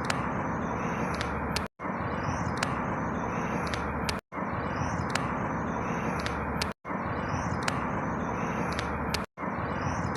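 Steady outdoor background noise, with a few faint high chirp-like marks, in a short loop that repeats about every two and a half seconds, each repeat broken by a brief dropout.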